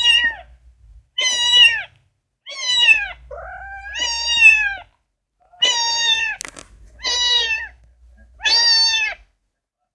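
Domestic cat meowing repeatedly, about seven meows in a row, most of them falling in pitch, with one longer drawn-out meow near the middle. A short sharp click sounds a little past halfway.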